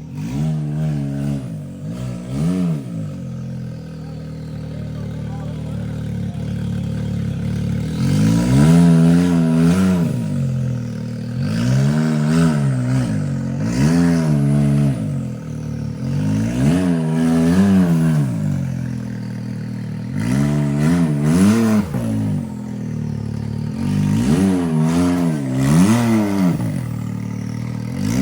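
Side-by-side UTV engine revved up and down in repeated throttle bursts while rock crawling, about a dozen rises and falls in pitch.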